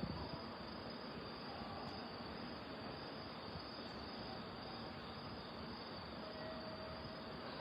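Crickets trilling steadily in the night, an even, unbroken chorus.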